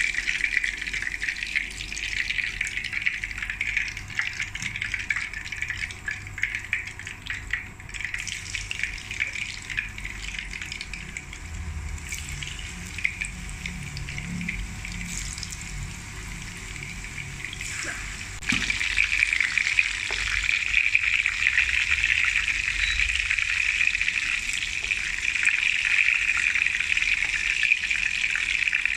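Chicken seekh kebabs shallow-frying in oil in a pan: a steady sizzle with crackling spatter, quieter through the middle and louder again from about two-thirds in.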